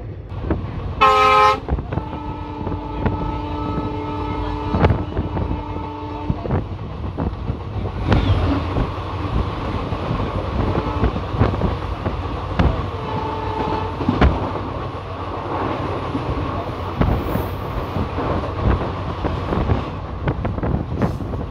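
Locomotive horns over a moving passenger train: a short blast about a second in, then a long steady multi-tone horn held for about four seconds, and a brief blast in the middle. Underneath, the rumble and clickety-clack of wheels over rail joints, growing denser from about eight seconds in as the coaches of an oncoming express rush past alongside.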